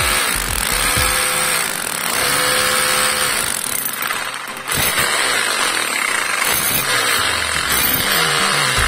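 Bosch GBH 2-26 DRE rotary hammer running, its motor speeding up and slowing several times, with a short drop about four and a half seconds in.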